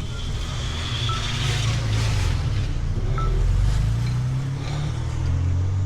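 A car's engine running close by, a low hum that shifts slowly in pitch, over wind and road noise.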